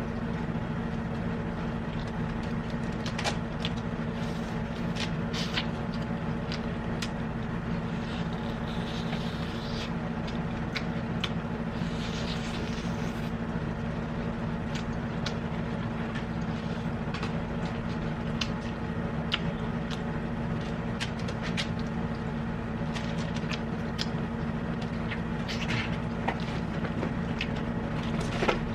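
Small clicks and taps of eating and handling food, with a rustle about ten seconds in, over a steady mechanical hum.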